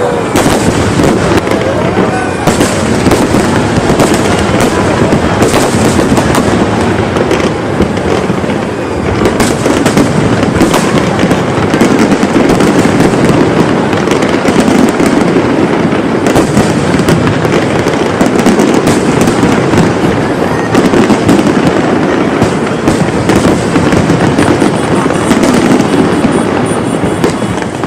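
Fireworks display going off as a dense, continuous barrage of bangs and crackles.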